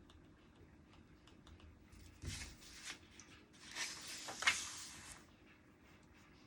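Paper rustling in two short bursts, the second longer and louder, like pages being handled or turned.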